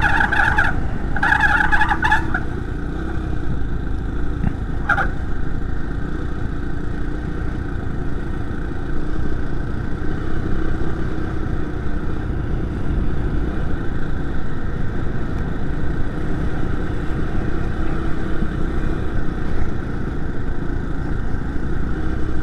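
A 49cc four-stroke motorized bicycle engine running steadily over low road and wind rumble. In the first two seconds a high squeal sounds twice, with a short one about five seconds in.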